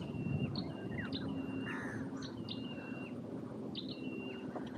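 A bird calling over and over, each call a short sharp note followed by a level whistle held for about half a second.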